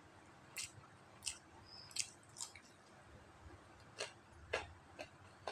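A person chewing stir-fried glass noodles: a series of short, wet mouth smacks and clicks, about eight, spaced irregularly.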